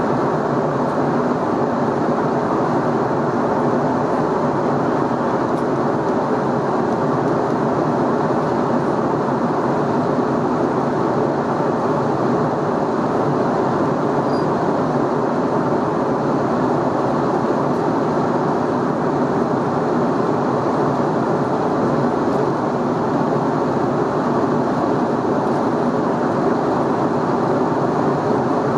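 Steady in-flight cabin noise of an Airbus A320neo: a constant rush of airflow over the fuselage with the low hum of its Pratt & Whitney PW1127G geared turbofan engines.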